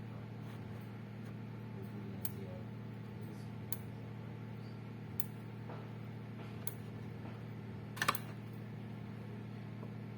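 Electric fence energizer pulsing, a sharp click about every second and a half over a steady low hum, with one louder snap about eight seconds in.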